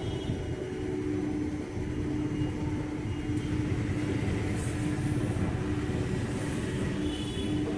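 Steady low rumble of a train at a railway station, with a steady hum running under it.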